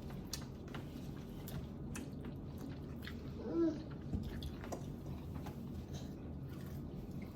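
People chewing mouthfuls of spicy instant ramen noodles, with many small wet mouth clicks. A short hum of a voice comes about halfway through.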